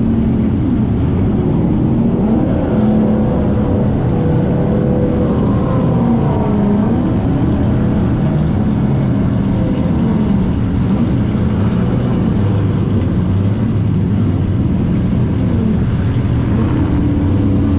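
Drift car engines running, idling with gentle rises and falls in pitch at a steady level.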